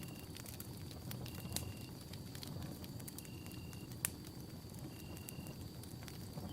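Campfire burning with a low, steady rush of flame and scattered sharp crackles and pops, one louder pop about four seconds in.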